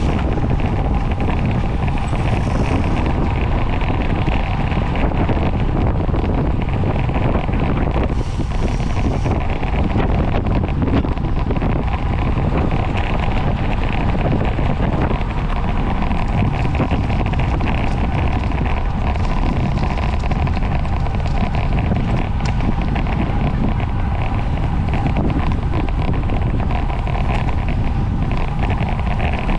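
Steady wind rushing over the microphone of a camera carried by a racing cyclist at speed, with a constant low rumble and no letup.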